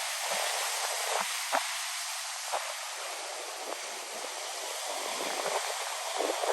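Steady rushing hiss of ocean surf, with a few short sharp pops scattered through it.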